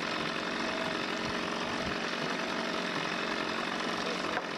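A motor running steadily with a rattling, machine-like clatter and a steady hum.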